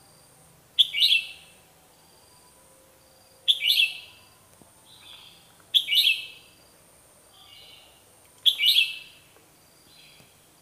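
Red-whiskered bulbul singing: four short, loud whistled phrases a few seconds apart.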